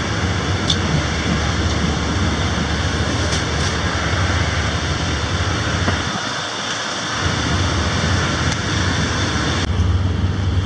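A moving passenger train's running noise: a loud, steady rush with a low rumble, easing for about a second a little after halfway.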